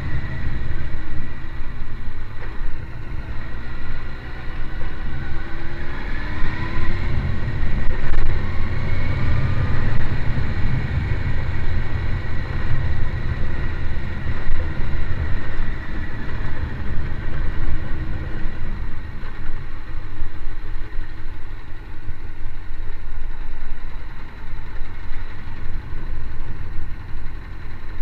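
Motorcycle engine running as the bike is ridden, its pitch rising and falling a few times around six to ten seconds in.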